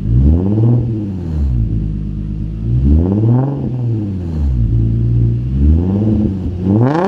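An engine revving up and falling back three times, then climbing steeply at the end.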